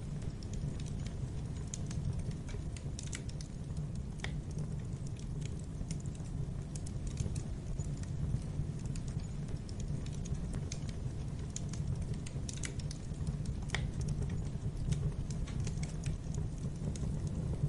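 Wood fire burning in a fireplace: a steady low rush of flames with irregular crackles and pops, a few sharper snaps scattered through.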